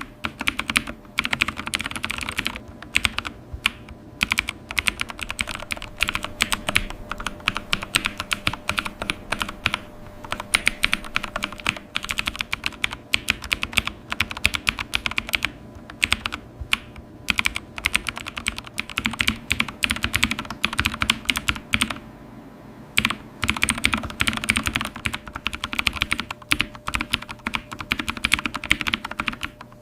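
Continuous fast typing on a computer keyboard, a dense run of key clicks broken by short pauses, with a faint steady hum underneath.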